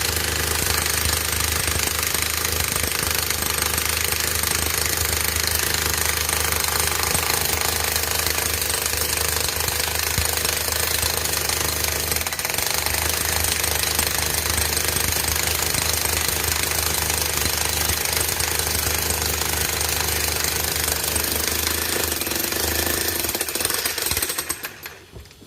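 Jackhammer breaking up a concrete pile head in continuous rapid hammering, stopping about a second before the end.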